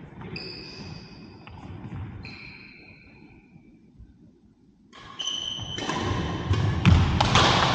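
Court shoes squeaking on an indoor sports hall floor during badminton play. A few squeaks come in the first two seconds. After a short lull, a denser run of squeaks and sharp knocks starts about five seconds in and gets louder.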